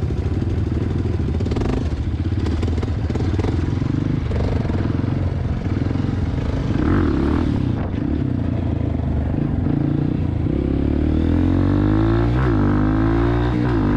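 Honda CRF230F dirt bike's single-cylinder four-stroke engine running while being ridden. From about ten seconds in it revs up, drops in pitch twice near the end as gears are shifted, and climbs again after each drop.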